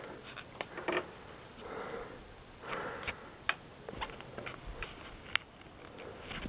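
Footsteps on the forest floor: soft rustles in leaf litter with scattered sharp clicks of small twigs, spread irregularly through the stretch.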